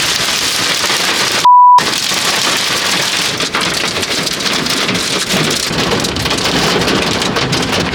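Heavy thunderstorm rain beating steadily on a car. About one and a half seconds in, a short single beep tone briefly replaces everything, an edited-in censor bleep.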